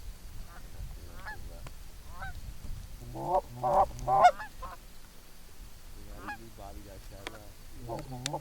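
Canada geese honking: a run of short calls throughout, with three loud honks in quick succession about three and a half seconds in.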